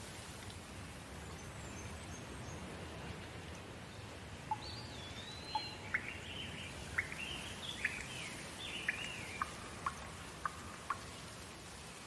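Steady rain hiss, with a bird calling repeatedly from about four seconds in: sliding whistled notes and short sharp chips.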